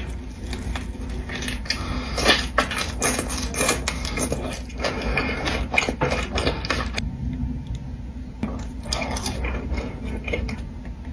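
Close-miked eating sounds: a dense run of crackles, clicks and chewing noises, with some clatter of cutlery or food handling. It thins out after about seven seconds.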